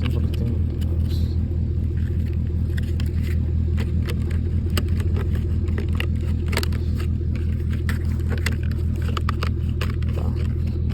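A machine's steady low hum, with scattered light clicks and taps over it.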